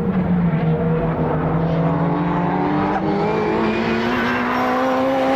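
A time-attack race car's engine under hard acceleration, its pitch climbing steadily in one long pull with no gear change.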